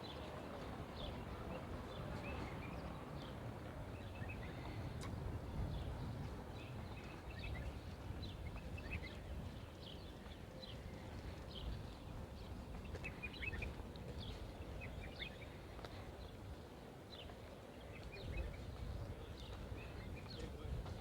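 Small birds chirping, with many short, high calls scattered irregularly throughout, over a steady low rumble.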